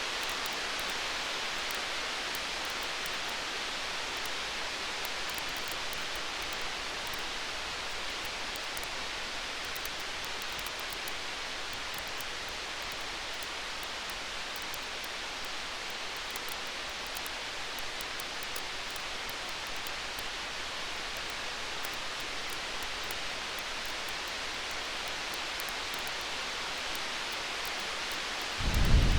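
A steady rain-like hiss with faint, scattered crackles of a wood fire. About a second before the end, a loud, low rumble of thunder begins.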